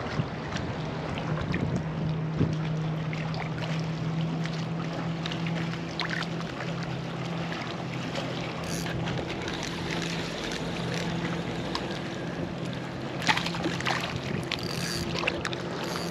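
Steady low hum of an Old Town AutoPilot 120 kayak's electric motor running, over wind and water noise, with scattered clicks and knocks near the end.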